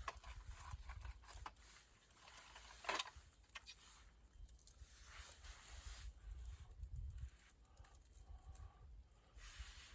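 Faint crackles and small snaps of burning or handled firewood, with one sharper snap about three seconds in.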